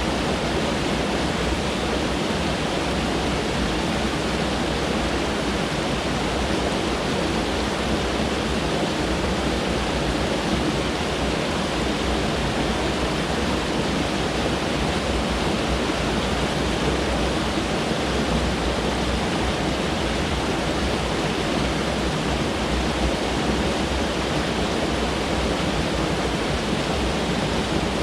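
Mountain stream flowing steadily, a constant even rush of water.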